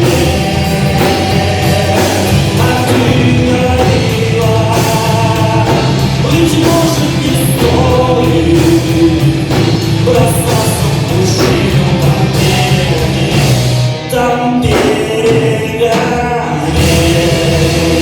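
Live rock band playing an instrumental passage, with a brief drop near the end before the full band comes back in.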